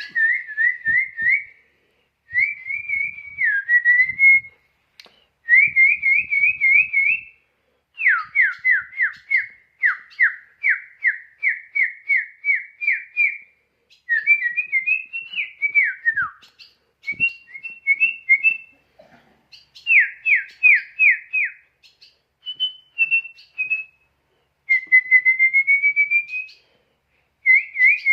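A bird singing in clear, pure whistles: phrases a few seconds long, mostly quick runs of repeated down-slurred notes, separated by short pauses, with a rising whistle near the end.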